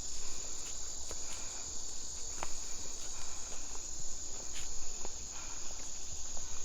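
A steady, high-pitched insect chorus of the kind called kuliglig, droning without a break. A few faint light clicks sound over it.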